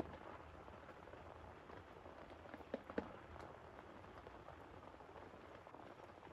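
Soft, steady rain falling, with a few sharper drop or tap sounds close together about three seconds in.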